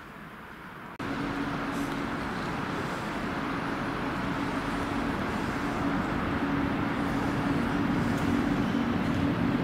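DB Regio double-deck train, cab car leading, rolling slowly along the platform: a steady rumble with a low hum that grows gradually louder. It starts abruptly about a second in, after a fainter low rumble.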